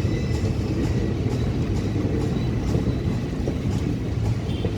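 Road traffic at a railway level crossing: a steady low rumble of car and motorcycle engines running.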